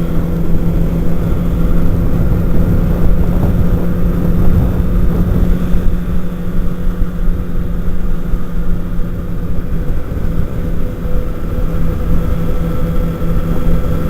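Sport-bike engine, the camera rider's 2008 Kawasaki Ninja ZX-6R inline-four, running at a steady cruising speed with an unchanging note. Heavy wind rumble on the microphone.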